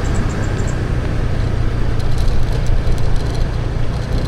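Motorbike on the move: a steady rush of wind on the microphone over the engine and road noise.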